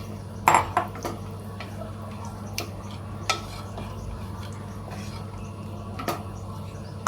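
A spoon clinks against a cooking pan several times, a few sharp knocks spread out, over a steady low hum.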